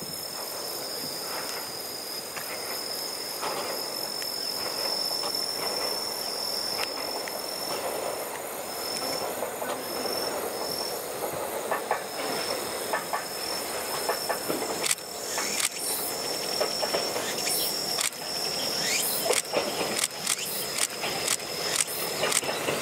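A Heisei Chikuho Railway 400-series diesel railcar approaching on the track and growing steadily louder. From about halfway on come sharp clicks and clatter as the wheels pass over the rails, thickest near the end as it draws close. Cicadas buzz in a steady high drone behind it.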